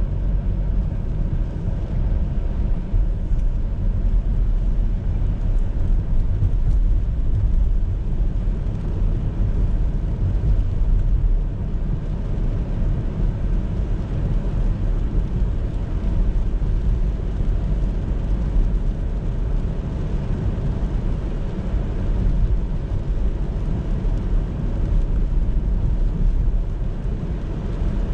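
Steady low rumble of a car driving: road and tyre noise with the engine running, even throughout with no distinct events.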